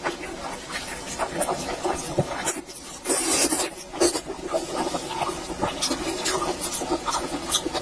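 Close-miked eating sounds: wet chewing and lip smacks in quick, irregular clicks, with a brief hiss about three seconds in.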